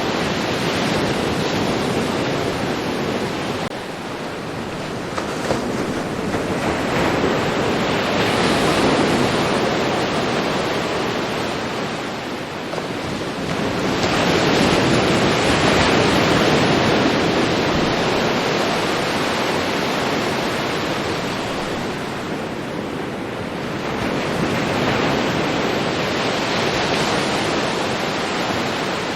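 Ocean surf: waves breaking and washing up the shore. The rush of water swells and fades about four times, several seconds apart.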